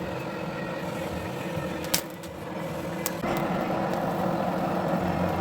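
A machine running steadily with a hum at several pitches, growing louder a little after three seconds in, with one sharp click about two seconds in.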